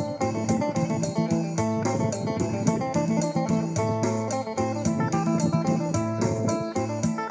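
Thai phin music: a lute playing fast, evenly repeated plucked notes over a steady bass line and beat.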